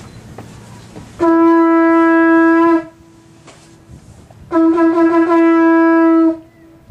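A horn blown twice. Each blast is a long, steady note of about one and a half seconds, both on the same pitch, and the second wavers briefly as it starts.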